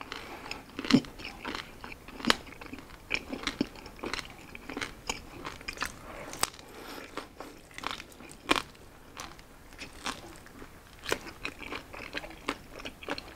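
Biting and chewing a piece of crispy grilled pork belly (liempo), with irregular sharp crunches and clicks. The meat is a little tough and chewy.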